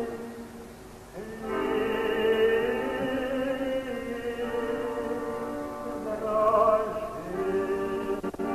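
Slow song sung with vibrato over sustained chordal instrumental accompaniment. The music drops back briefly about a second in, then swells again.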